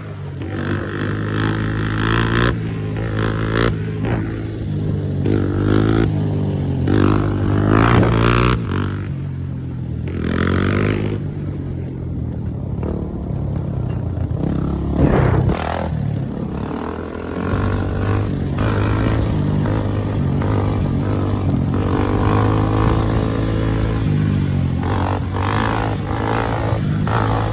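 Yamaha dirt bike engine running and revving, its pitch sweeping up and down several times, with a steadier stretch in the middle.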